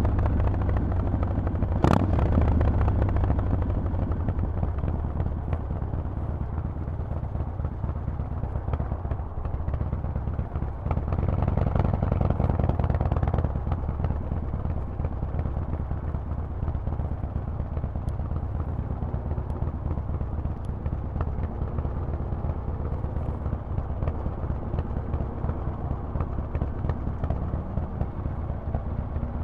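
Harley-Davidson Forty-Eight's 1200 cc V-twin with a Vance and Hines exhaust, running under way with the throttle changing. It is louder at the start and again for a couple of seconds about eleven seconds in, and there is a single sharp knock about two seconds in.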